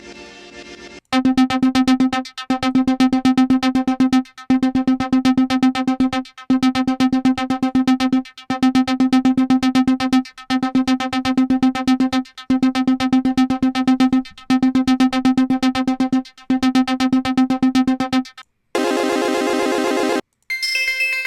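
Software synthesizer playing a buzzy, rapidly pulsing note, the same pitch repeated in a loop of about two-second notes with short breaks. Near the end it switches to a different, denser tone and then a brighter, higher-pitched sound.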